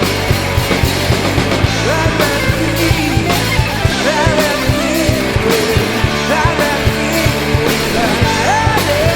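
Rock band playing live: electric guitars and a drum kit with a steady beat, and a lead vocal coming in about two seconds in.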